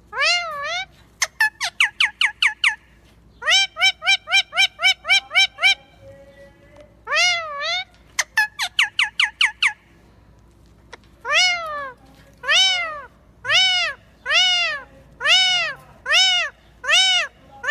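Pet parrot calling: quick runs of short, sharp notes at about four or five a second, then from about halfway through a string of longer rising-and-falling calls, roughly one a second.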